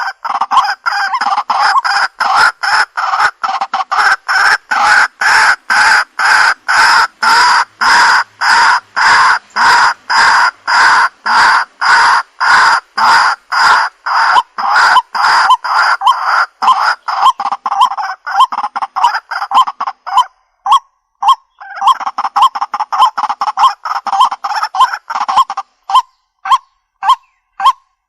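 Waterhen (jal murgi) calling: loud, harsh short notes repeated rapidly, about two to three a second. About two-thirds through there is a brief break, then the notes resume and near the end slow to single spaced calls.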